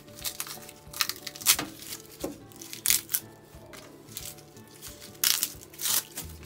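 Dry, papery garlic skins crackling and crinkling as a head of garlic is broken apart into cloves by hand, in several short irregular bursts; the loudest come about one and a half seconds in and again around five to six seconds in.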